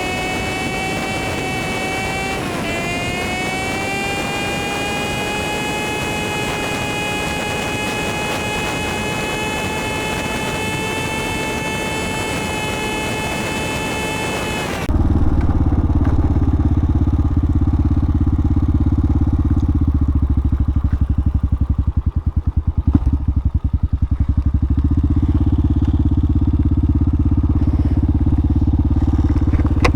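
Hawk 250 single-cylinder motorcycle engine running at steady road speed, heard as a pitched whine that dips briefly a couple of seconds in. About halfway through the sound changes abruptly to a louder, deep rumble with the high whine gone.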